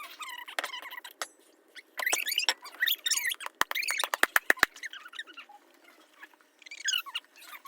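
Homemade slime being squished and stretched by hand, giving many short, wet squeaks, with a quick run of sharp pops or clicks about four seconds in.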